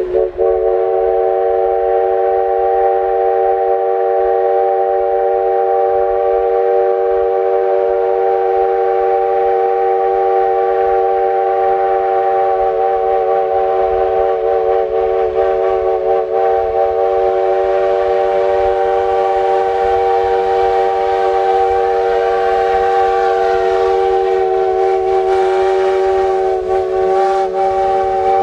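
Steam locomotive's accordion whistle (apito sanfona) blowing one long multi-note chord, held without a break, with slight wavers in pitch near the middle and again near the end.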